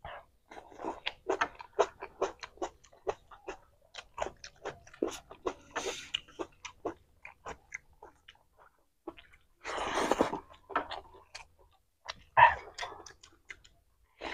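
Close-miked eating sounds: wet chewing and biting of fresh tomato, rice and chicken, a quick, uneven run of mouth clicks and smacks. There is a longer noisy burst about ten seconds in and a sharp loud one shortly after.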